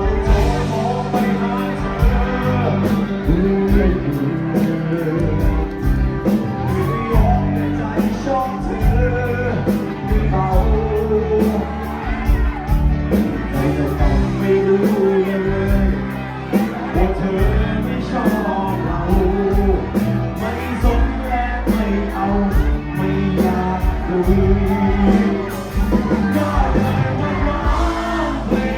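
Live bar band playing a song, with a singer over a steady drum beat.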